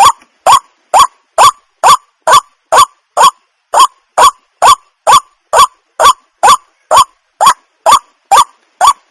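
Waterhen calling: a short, upward-sliding note repeated steadily, about two a second.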